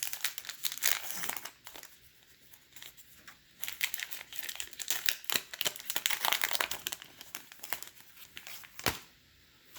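Baseball card pack wrapper being torn open and crinkled by hand, in two busy spells of crackling with a quieter pause between. A single sharp click comes near the end.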